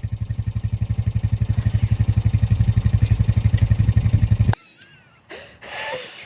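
Quad bike engine idling with an even low throb, then switched off about four and a half seconds in.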